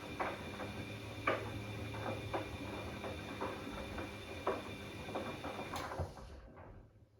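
Bosch Classixx 6 washing machine tumbling its wash during the heating phase of a cottons 90 °C cycle: a steady motor hum with a faint whine and irregular soft knocks from the load turning in the drum. The drum motor stops about six seconds in and the sound fades out.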